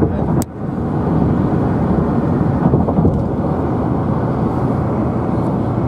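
Steady low road and engine rumble heard inside a moving car, with a single sharp click about half a second in.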